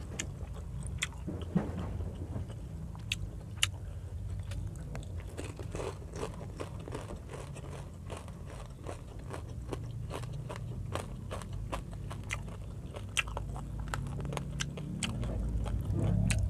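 A person chewing a mouthful of food close to the microphone, with frequent short crunches and mouth clicks throughout.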